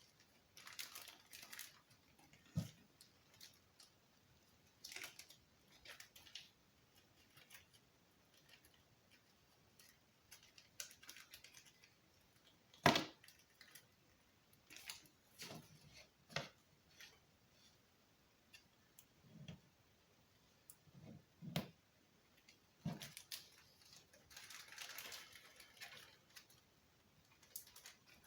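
Small parts and packaging being handled on a table: scattered clicks, taps and soft knocks, one sharp click about halfway through, and a stretch of rustling near the end.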